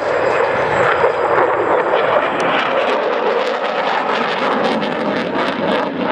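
Eurofighter Typhoon's two EJ200 jet engines at high power as the fighter comes through a max-rate turn close by: a loud, steady rushing jet noise with some crackle in the second half.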